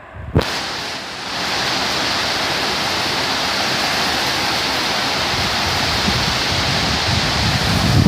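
Torrential tropical rain pouring down in a loud, steady, dense hiss. It starts abruptly with a knock about a third of a second in. Gusts buffet the microphone with low rumbles near the end.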